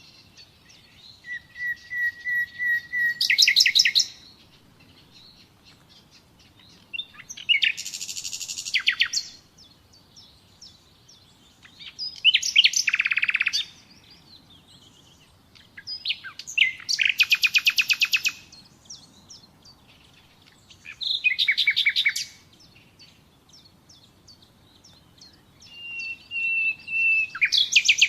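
Nightingale singing: six short phrases separated by pauses of a couple of seconds. Each phrase is a fast run of repeated notes or a rattling trill, and some open with a drawn-out whistle.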